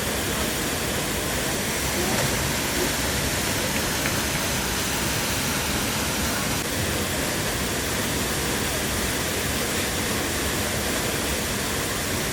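Waterfall: falling water rushing steadily, a loud even hiss without breaks.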